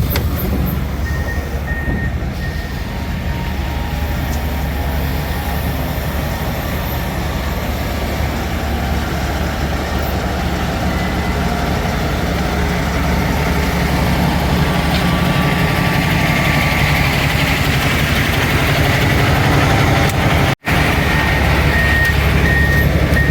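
Diesel dump truck running steadily, a low engine drone. A fast-repeating high-pitched beep sounds briefly about a second in and again near the end.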